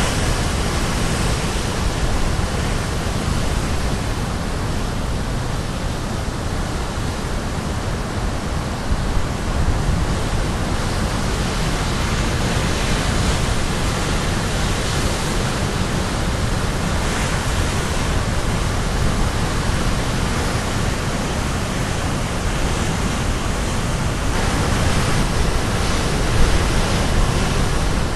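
Sea surf crashing continuously on the shore, a dense steady roar of breaking waves that swells and eases slowly, with wind on the microphone adding low rumble.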